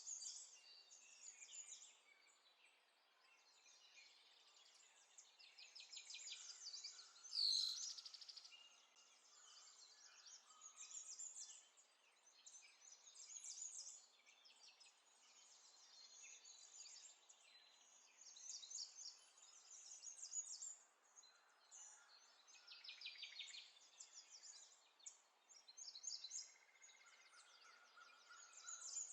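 Faint birds chirping and trilling in repeated short phrases, with one louder sound about seven and a half seconds in.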